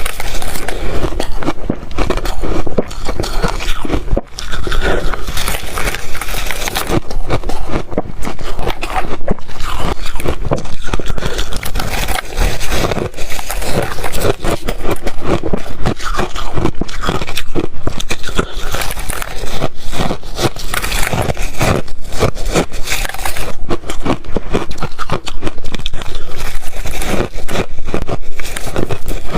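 Ice being crunched and chewed: a dense, unbroken stream of loud, sharp crunches and crackles.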